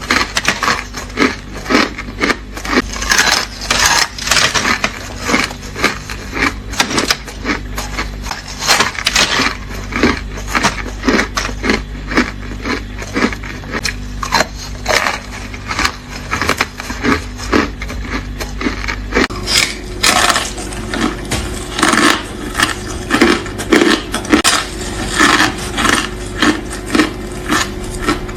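Ice being bitten and crunched close to the microphone: a steady run of sharp, brittle crunches, about two or three a second.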